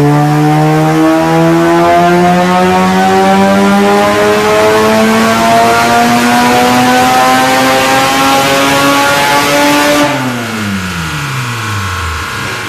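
A car engine under full throttle, its note climbing steadily through the revs in one long pull for about ten seconds. It then comes off the throttle, and the note falls away quickly and gets quieter.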